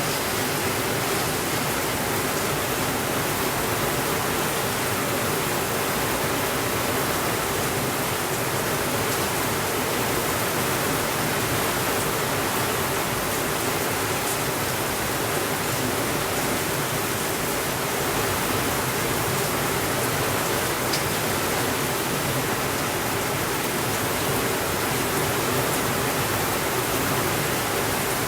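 Steady rainfall, an even hiss that holds at one level throughout, with a few faint clicks and no thunder.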